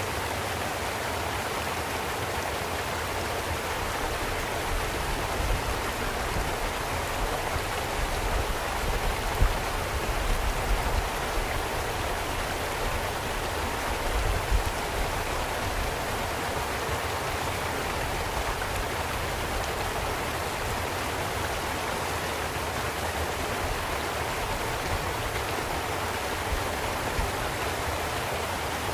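Steady water ambience: an even hiss of running water or rainfall over a low rumble, with a few brief louder spikes around the middle.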